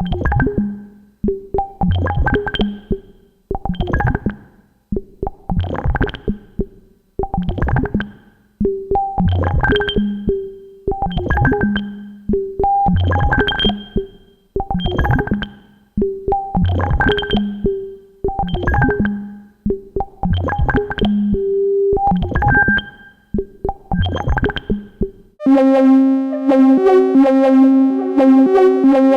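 Eurorack synthesizer sequence played through the SEOK DRIPS 12 dB/oct analog filter: a rhythmic pattern of short pitched plucks, about one a second, each decaying quickly, some with a low thump beneath. Near the end it changes to a continuous, brighter buzzing note sequence full of overtones.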